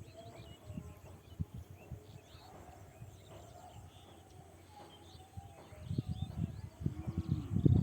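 Many small birds chirping and twittering in quick short calls, with irregular low thumps and rumbles that get louder near the end.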